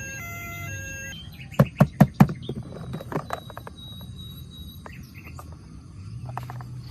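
A toy's electronic siren beeping in stepped tones cuts off about a second in; then four sharp clicks or knocks in quick succession, followed by softer scattered clicks and faint chirps.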